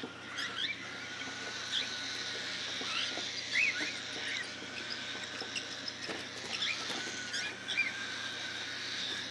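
Baby cockatiel chicks making many short, high squeaky peeps and chirps, scattered and overlapping: begging calls during hand-feeding. A faint steady high hum runs underneath.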